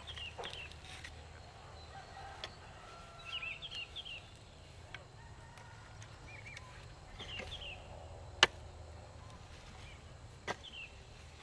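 Bird calls in short clusters of quick, falling chirps, several times, with a few sharp knocks; the loudest knock comes about eight seconds in.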